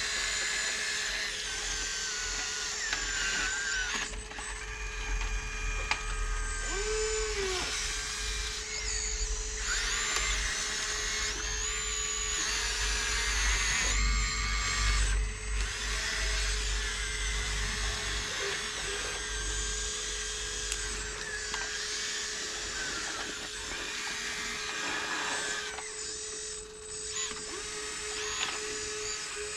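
Small electric motors of radio-controlled model construction machines whining as they run, their pitch rising and falling as they speed up and slow down, over a steady hum.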